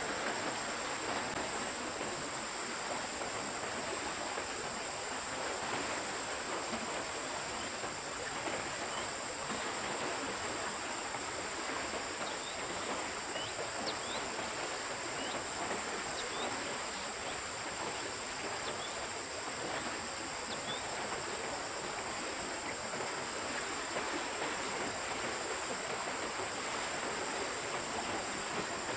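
Forest stream water running steadily, with a continuous high-pitched insect trill over it and a few short high chirps in the middle.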